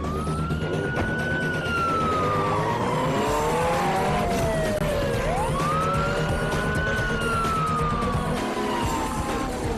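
Police siren wailing, rising quickly and falling slowly, twice, over a car engine running.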